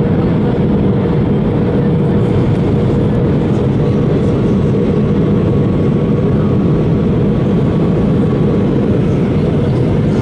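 Airbus A320 cabin noise in flight: a steady, even roar of engines and airflow, with a constant hum throughout and a faint higher tone from about four to eight seconds in.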